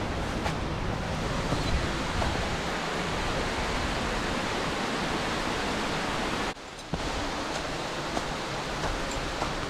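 Steady rushing of water falling from a tall, thin-flowing waterfall. The sound briefly drops out for about half a second about two-thirds of the way in, then resumes.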